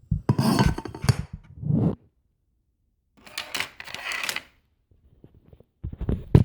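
Handling noise: objects clicking, clattering and rustling as things are moved about on a work surface, in three bursts with a short sharp click near the end.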